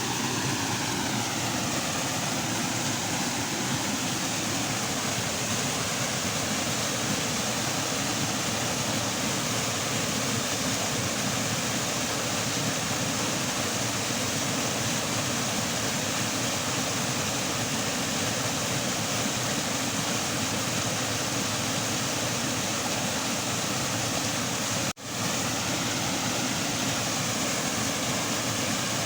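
Swollen drainage ditch water rushing fast and steadily after a night of heavy rain, the current running high. The sound cuts out for a moment once near the end.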